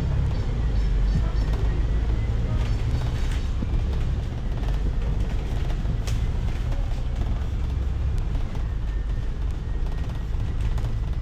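Bus engine and road noise heard from inside the cabin: a steady low rumble while the bus is moving.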